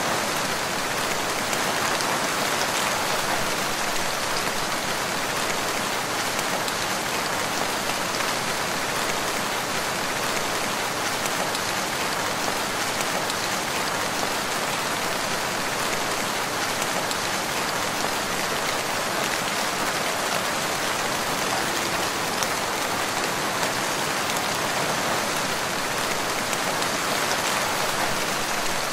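Steady rain falling in a forest, an even dense hiss of drops with no thunder.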